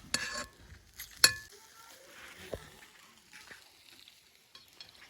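Cooking sounds at an outdoor grill: a short scrape, then a sharp metallic clink a little over a second in, followed by a faint sizzle with small ticks.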